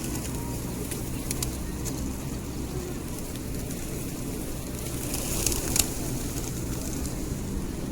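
Open-air ambience around a flock of pigeons: a steady low rumble with scattered small clicks, and a short rustling flurry about five and a half seconds in.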